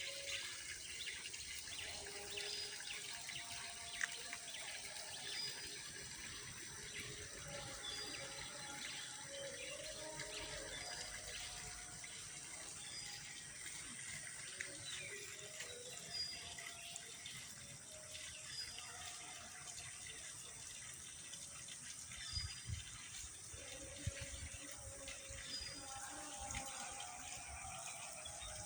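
Running water with birds calling now and then over it.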